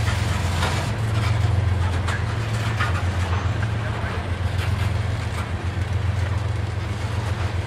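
Steady low rumble of a freight train, with scattered faint clicks and knocks over it.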